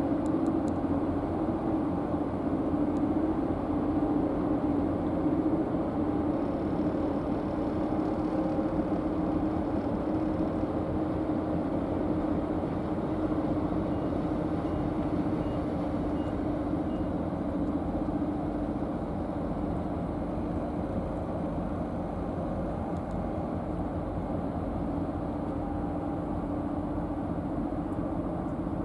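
Steady low drone of a high-speed car ferry's engines heard across the water, fading slowly as the ship moves off.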